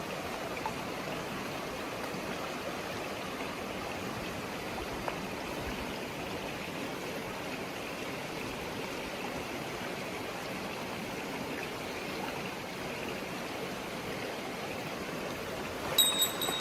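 Mountain stream water rushing steadily over rocks, an even, unbroken flow. Near the end a short high tone and a few sharper sounds come in over it.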